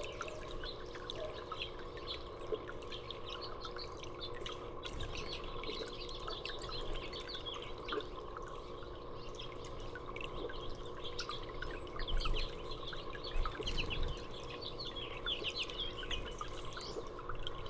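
Small songbirds chirping with many short, high calls over a steady low hum and dripping water. A few dull low knocks come about two-thirds of the way through.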